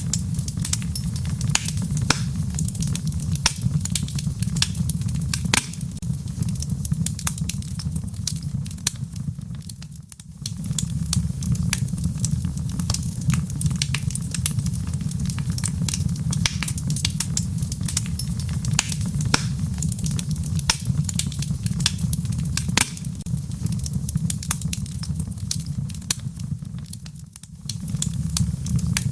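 Wood fire in a fireplace crackling, with frequent sharp pops and snaps over a steady low rumble of the flames. The sound dips away briefly twice, about ten seconds in and near the end, then returns.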